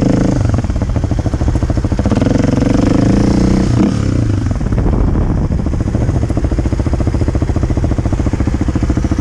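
Kawasaki KLX250's single-cylinder four-stroke engine revving up as the bike rides, easing off at first, then rising again from about two seconds in. Near four seconds it drops sharply with a click and then runs steadily at low revs.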